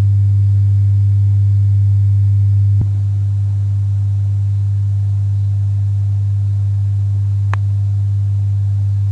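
Loud, steady low mains hum from an Audio-Technica AT-LP1240 turntable's audio output: the hum fault the turntable suffers from. A click about three seconds in, where the hum drops slightly, and another short click near the end.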